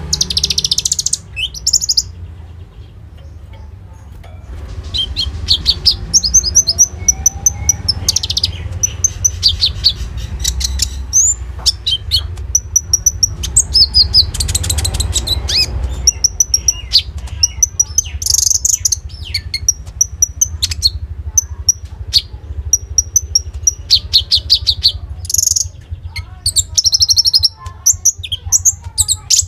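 Konin songbird singing in its full, persistent 'gacor' manner: bursts of rapid, high chirps and trills come again and again, with a short lull about two seconds in. A steady low hum runs underneath.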